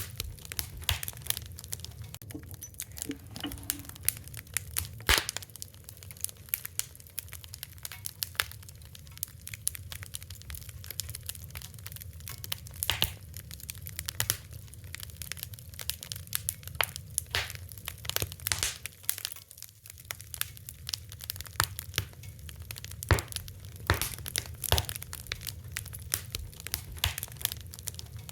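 Fire crackling: irregular sharp crackles and pops, a few of them louder, over a low steady rumble.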